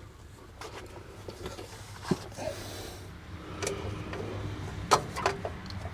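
A few scattered sharp clicks and knocks of a hand tool working the oil filter loose, over a low steady hum.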